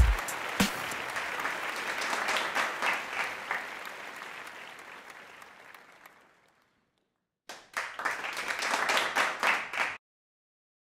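Applause: a dense crackle of many hand claps that fades away over about six seconds. After a short silence, a second burst of clapping lasts about two and a half seconds and cuts off abruptly.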